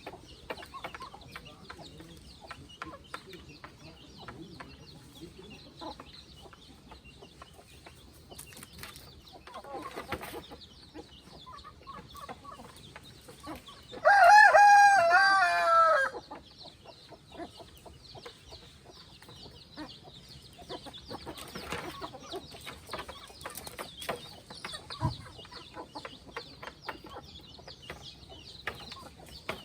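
Free-range chickens clucking, over a background of many short ticks. Midway, a rooster crows once for about two seconds, loud and falling in pitch at the end.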